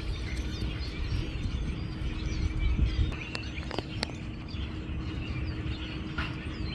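A large flock of birds calling, many short overlapping chirps and squeaks at once, over a steady low rumble. A few sharp clicks stand out about three to four seconds in.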